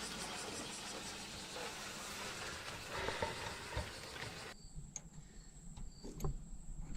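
Subaru Sambar kei truck's engine running steadily, then cutting off suddenly about four and a half seconds in. After that, insects chirp and a few light clicks are heard.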